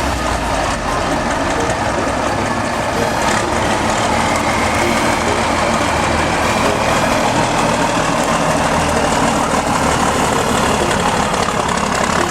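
Heavy truck engine running steadily, with a faint whine rising slightly in pitch through the middle.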